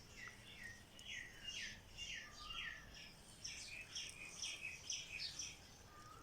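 A small songbird singing a run of quick, repeated falling notes, about two a second at first and then faster in the second half, with a faint lower whistle from another bird partway through.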